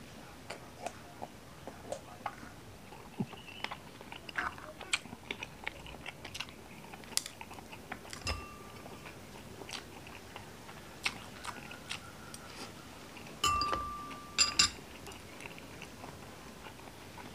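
Close-up chewing of a mouthful of balot (boiled fertilized duck egg): a scatter of short, wet mouth clicks and smacks. About eight seconds in there is a brief ringing tone, and near the end a few louder clicks with a short ringing tone.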